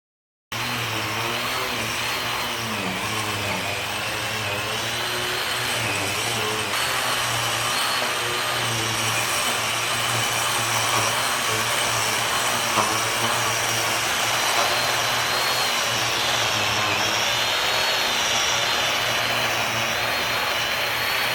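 Ryobi lawn edger running steadily as its blade cuts a line into the turf, a low hum under a high whine that wavers a little in pitch. It starts abruptly about half a second in.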